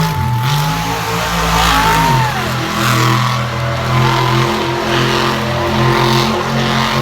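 Monster truck engine running loud, its pitch dipping briefly about two seconds in and then holding steady.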